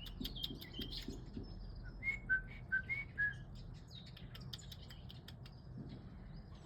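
Small garden birds chirping and calling, with a run of five short, clear whistled notes about two seconds in.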